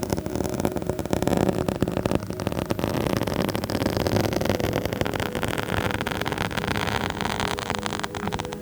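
Fingernails scratching directly on a microphone: a dense, continuous crackling scratch with many fine clicks, the level rising and falling with the strokes.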